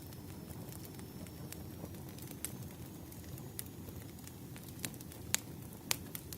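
Wood fire burning: a steady low rumble of flames with sharp, irregular crackles and pops from the burning firewood, the loudest two pops about five and six seconds in.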